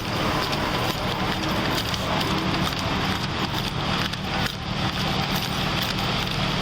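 Steady noise of traffic and idling vehicles with a low engine hum, and a few faint irregular knocks and rustles.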